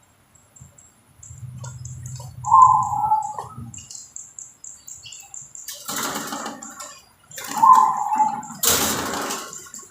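Zebra dove (perkutut) cooing in two short phrases, with two loud rustling bursts, the louder one near the end.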